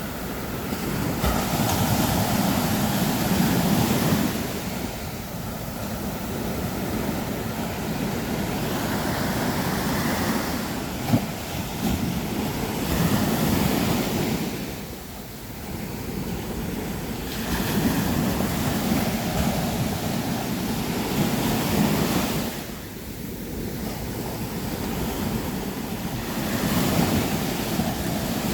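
Sea waves breaking on a beach, the surf swelling and ebbing every several seconds, with one brief knock about eleven seconds in.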